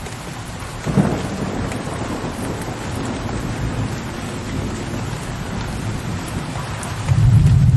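Steady rain hiss with thunder: a sharp clap about a second in rolls on and fades slowly, and a deep, low thunder rumble swells in near the end.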